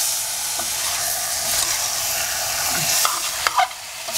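Masala-coated chicken pieces sizzling and frying in a stainless steel pressure cooker while a steel ladle stirs them, with a few sharp knocks near the end.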